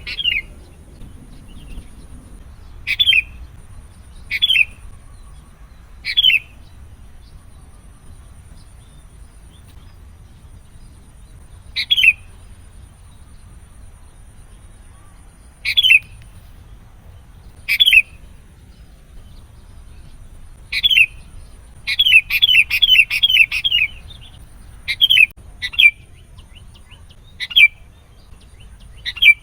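Sooty-headed bulbul (kutilang) giving short, sharp, down-slurred chirps. They come mostly one at a time, a few seconds apart, with a quick run of about seven about two-thirds of the way through.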